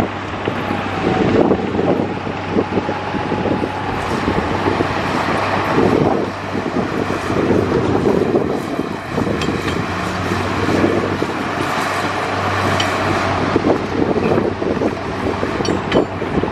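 Bulldozer's diesel engine running steadily, with scattered sharp metallic clanks.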